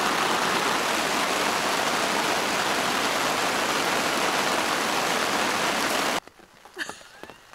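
Heavy rain pouring down on a nylon tarp overhead, a steady, even hiss that cuts off suddenly about six seconds in.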